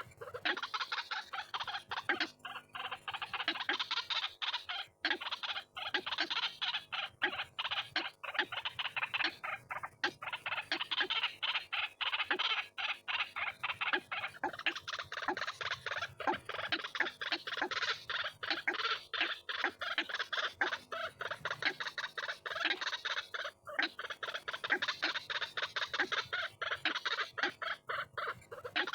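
White-breasted waterhen (ruak-ruak) calling: a long run of rapid, harsh repeated notes, many a second, swelling and easing in waves. It is a recorded lure call used for trapping the birds.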